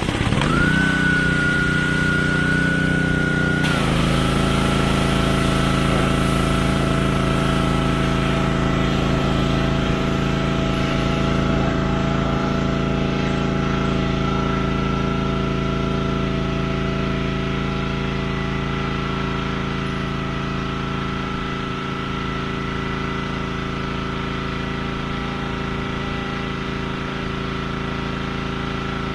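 Pressure washer starting abruptly and then running steadily, with a high whine over its motor hum. About four seconds in the pitch drops slightly and the sound settles into an even, continuous run.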